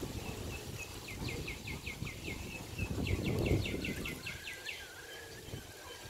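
A bird calling a quick series of short, sharp chirps, about six a second, then a few lower wavering whistles near the end. Wind buffets the microphone throughout.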